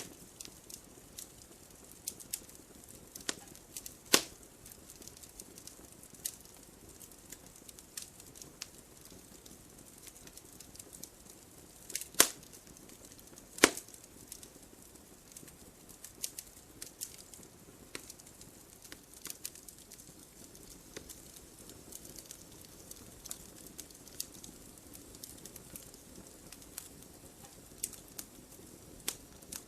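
Campfire wood burning and crackling: irregular sharp pops and ticks over a faint hiss, with a few louder snaps, the two loudest close together near the middle.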